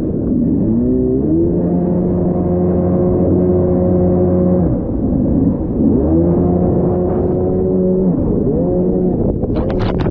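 Two-stroke twin engine of a 1990 Kawasaki 650SX stand-up jet ski under throttle while riding: it revs up and holds, the revs drop briefly just before halfway, then climb and hold again before wavering near the end. A few sharp slaps near the end.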